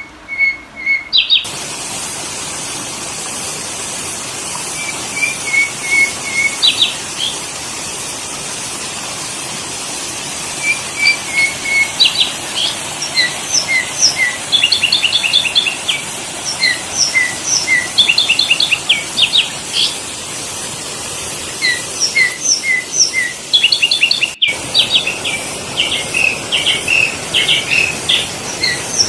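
Sooty-headed bulbul (kutilang) calls: runs of short, bright chirps and whistled notes, repeated over and over over a steady hiss.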